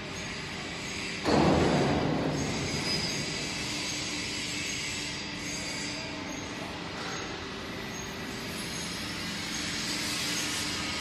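A 14-tonne excavator working with a manual grapple: steady machine noise with a thin metallic squeal over it, and a sudden loud crash about a second in that fades over the next second.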